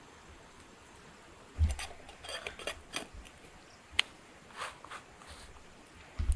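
Cookware and utensils being handled, giving light clinks and knocks after a quiet start, with one sharper click about four seconds in.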